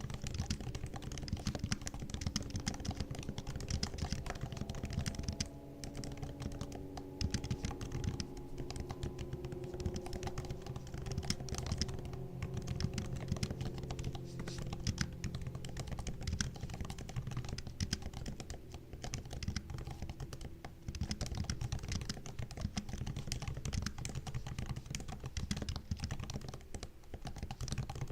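Typing on a MacBook's laptop keyboard: a dense, steady stream of soft key clicks and taps, broken by a few short pauses.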